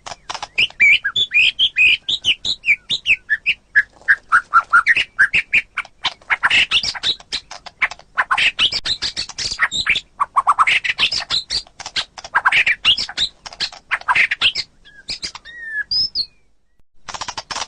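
White-rumped shama (murai batu) singing a fast, unbroken stream of varied whistled and chattering notes. About fifteen seconds in the song thins to a few scattered notes, then a short burst near the end.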